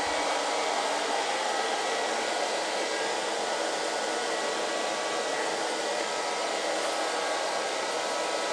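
iLife V5 robot vacuum running: a steady whir of its suction fan with a faint steady whine on top, as it is driven across the floor.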